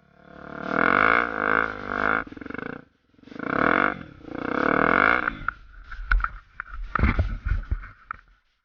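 Honda Tornado's single-cylinder 250 cc engine revving up and easing off twice, its pitch rising and falling. From about halfway in, the engine drops back and irregular knocks and low rumbles take over.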